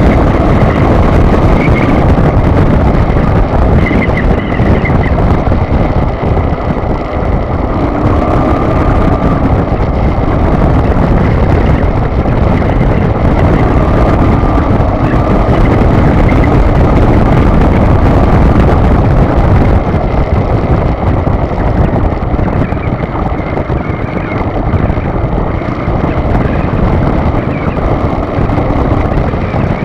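Car driving on the road: loud, steady road and engine noise with no break.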